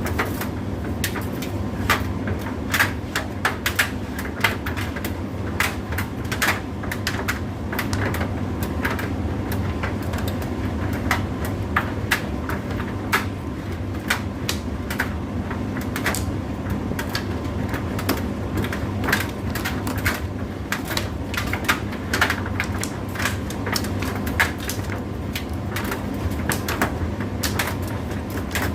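Indesit IDC8T3 condenser tumble dryer running: a steady motor and fan hum with frequent irregular clicks and taps throughout.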